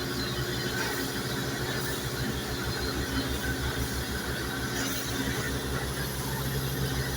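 An engine running steadily: a low, rhythmic pulsing rumble.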